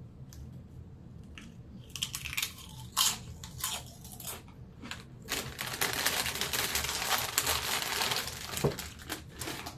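Snack-chip bag crinkling and rustling as it is handled. A few sharp crackles come first, then about four seconds of continuous crinkling starting around the middle.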